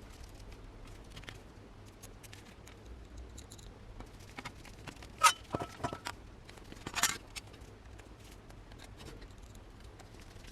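Quiet handling sounds at a workbench: scattered light clicks over a low hum, one sharp metallic click with a brief ring about five seconds in, and a short scrape about two seconds later.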